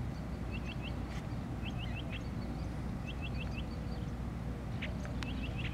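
A small bird chirping in short, quick runs of three or four notes, repeated four times about a second apart, over a steady low outdoor rumble.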